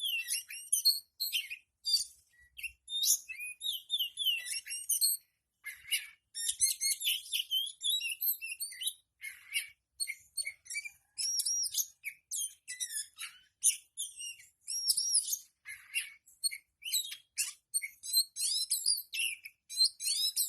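Oriental magpie-robin (kacer) singing a fast, varied song of clear whistles, chirps and sweeping notes, with a short break about five seconds in.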